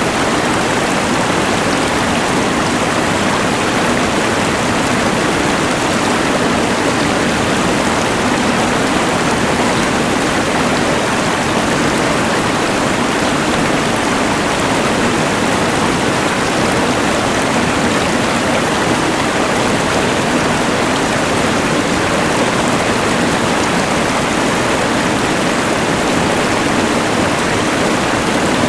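Rushing mountain river layered with a LectroFan white noise machine: a steady, even hiss of water and noise that does not change.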